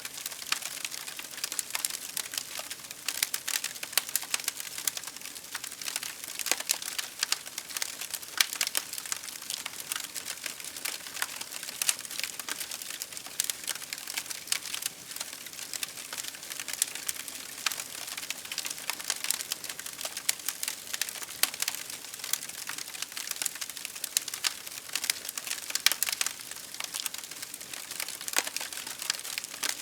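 Fireplace fire crackling steadily: dense, irregular pops and snaps over a soft hiss.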